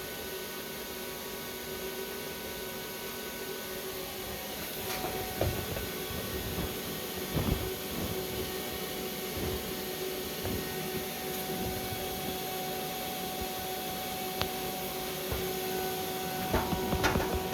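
Stick-welding setup running: a steady hiss and hum with scattered sharp crackles and clicks, busier near the end.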